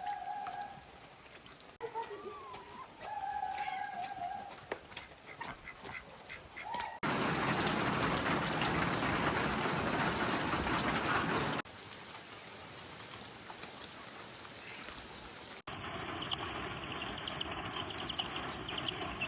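Domestic fowl giving a few long, steady calls over light rain. After a cut a few seconds later, heavy rain falls as an even hiss, then, after further cuts, lighter steady rain.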